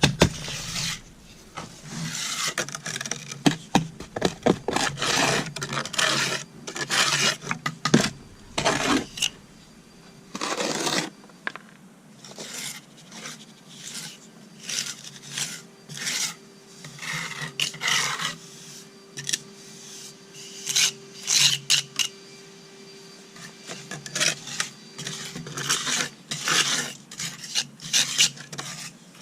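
A hand tool scraping and rubbing against concrete steps in quick, irregular strokes, cleaning loose material off the surface before patching.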